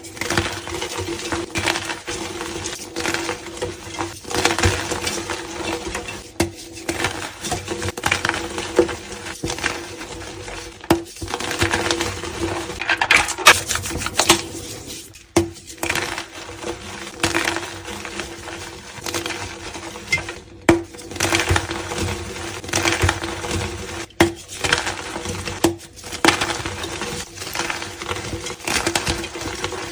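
Blocks of gym chalk (magnesium carbonate) being crushed and crumbled, a dense run of crisp crunching and crackling with several brief breaks where clips are cut together.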